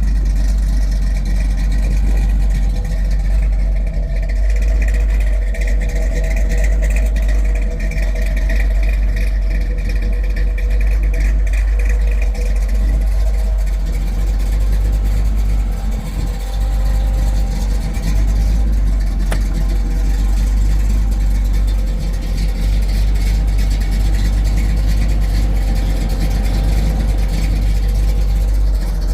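1968 Pontiac Firebird running with a steady low rumble, its pitch drifting a little with no sharp revs.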